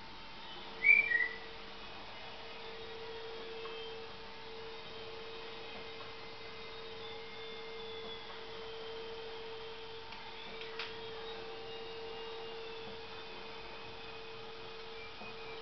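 A small pet parrot gives one short two-note whistle about a second in, the second note a little lower. Under it a steady low hum runs throughout.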